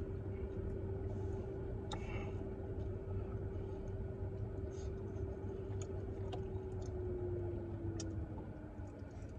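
Close-up chewing of a fried chicken sandwich, with faint wet mouth clicks now and then. Under it runs the steady hum of the car cabin, its held tone sliding lower near the end.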